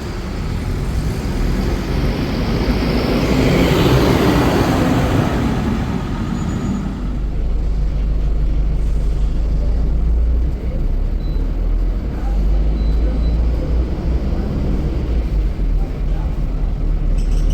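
Scania K310 bus engine running with a steady low rumble, under road and traffic noise. A louder wash of noise swells and dies away over the first several seconds, like a vehicle passing close by.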